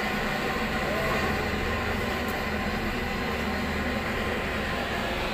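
Steady mechanical rumble and hiss, even throughout with a constant low hum underneath.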